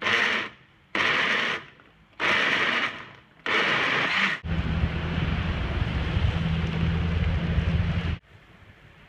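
Electric blender making a banana smoothie: four short pulses about a second apart, then running continuously for about four seconds with a low motor hum before cutting off suddenly.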